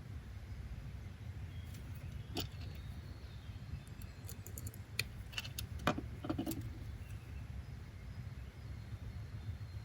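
Steady low background rumble with a few sharp light clicks and clinks scattered through the middle.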